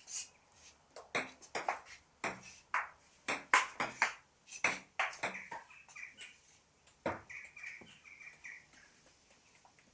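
Table tennis rally: the ball clicks back and forth off bats and table, about a dozen quick hits, the last one about seven seconds in.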